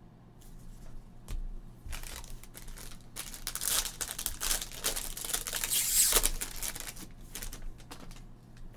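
Plastic trading-card packaging crinkling as cards are handled and unwrapped, with a few light knocks at first and the crinkling loudest about six seconds in.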